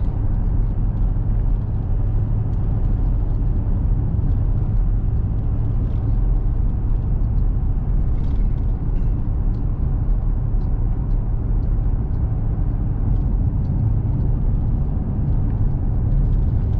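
Steady engine hum and tyre road noise heard from inside a small truck's cabin while it drives along at road speed.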